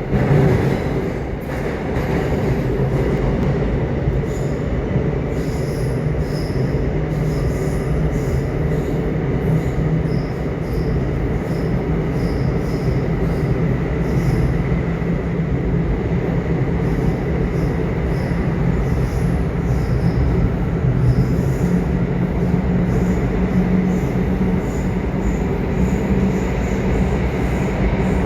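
Subway train running: a steady dense rumble with a low hum and faint, brief high-pitched squeaks from the wheels every so often.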